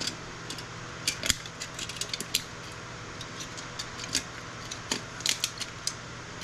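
Hand tool working a soldered component off a circuit board: irregular sharp clicks, snaps and scrapes as the part is pried and pulled against its many pins and solder joints.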